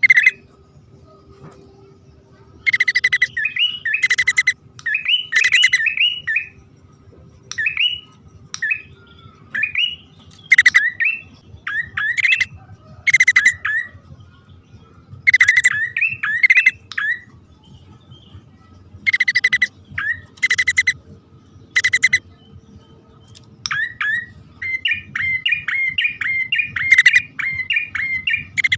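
Male and female prinias (prenjak) calling in repeated bouts every two to three seconds: clusters of harsh, rattling notes mixed with quick rising chirps. Near the end the chirps come in a faster run.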